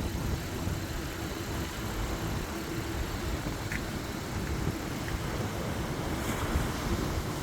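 Storm wind buffeting the microphone in a steady rumbling rush, with the noise of storm-driven surf behind it.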